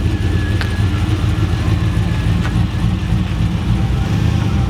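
Turbocharged LS V8 running steadily at a low idle through its mufflers, with a couple of faint clicks.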